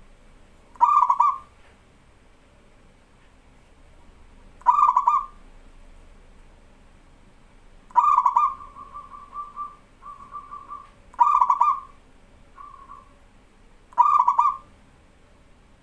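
Zebra dove (perkutut) cooing: five short rolling coos come about every three seconds. The third coo runs on into a longer, softer trill, with a few broken fragments after it.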